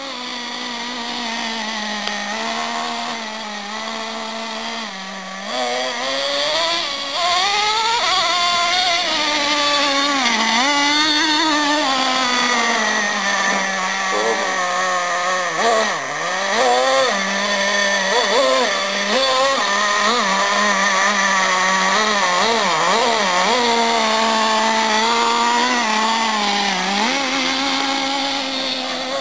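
Traxxas T-Maxx nitro RC monster truck's small glow-fuel two-stroke engine running with a high, buzzing note whose pitch rises and falls over and over.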